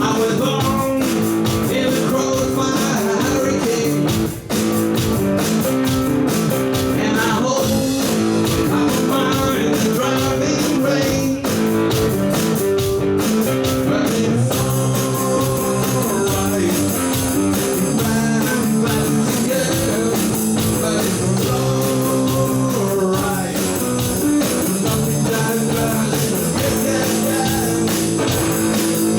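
Rock band playing live, with guitars over drums, a steady full sound with a brief drop about four and a half seconds in.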